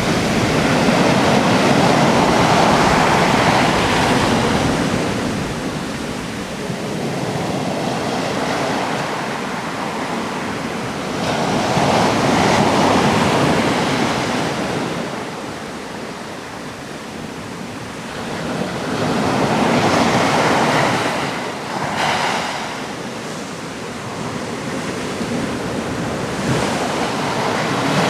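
Atlantic surf breaking on a rocky coast, waves crashing and washing back in slow swells about every eight seconds, with a few sharper crashes near the end, and some wind.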